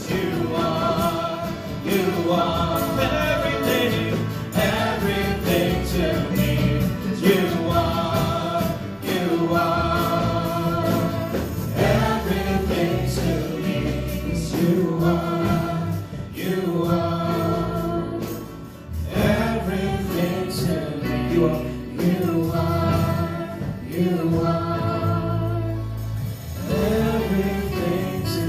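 Gospel worship music with a choir singing over a band, in phrases a couple of seconds long.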